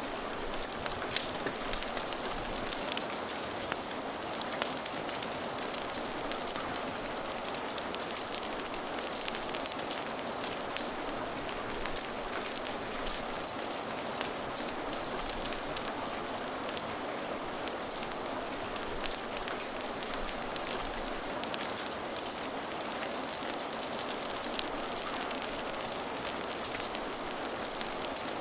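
Steady rain ambience mixed with a crackling fire: an even hiss of rain with small pops and clicks scattered through it.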